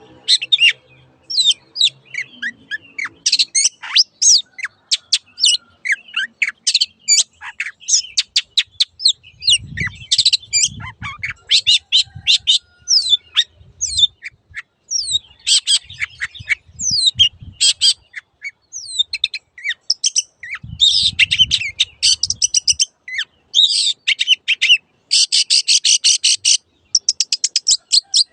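Long-tailed shrike singing a fast, unbroken string of sharp chirps, trills and slurred whistles, turning into dense buzzy runs in the last third. Low dull thumps sit under it in the middle.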